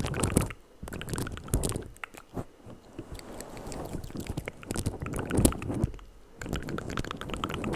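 Close-miked ASMR mouth sounds: wet clicks and smacks in quick clusters with short pauses between them.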